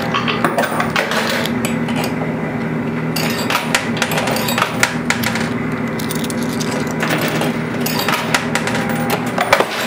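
Coin pusher arcade machine: quarters dropping in and clinking and clattering on the playfield, many short clicks scattered over a steady low machine hum.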